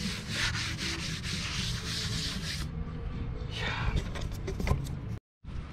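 Rough rubbing and scraping on wood in quick repeated strokes for about two and a half seconds, then it stops.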